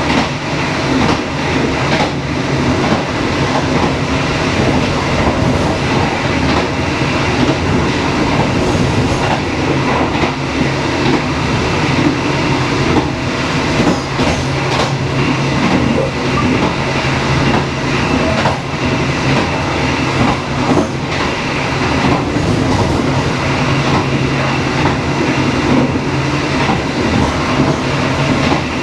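Dharmawangsa passenger train running steadily along the line: a continuous rumble of the carriage on the rails, with occasional sharp clicks from the wheels passing over rail joints.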